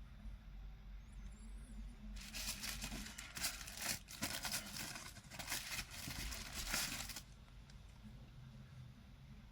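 Unboxing packaging being handled: a crinkling, crackling rustle that starts about two seconds in and stops after about five seconds.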